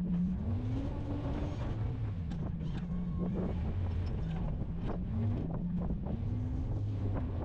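A snow-plowing vehicle's engine running, its pitch rising and falling several times as it revs under load, with scattered clicks and knocks.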